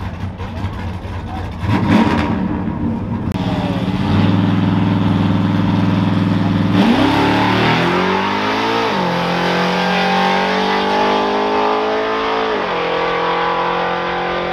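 Vehicle engine revving hard and held at high speed. The pitch climbs sharply, falls back, holds steady at a high level for a few seconds, then drops.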